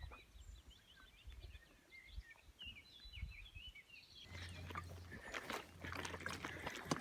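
Small birds chirping and singing, then from about four seconds in a run of irregular crunching footsteps along a path with rustling and a low rumble.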